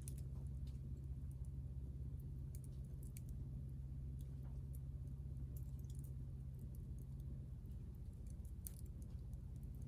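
Wood campfire crackling, with scattered sharp pops and ticks at irregular intervals over a steady low rumble.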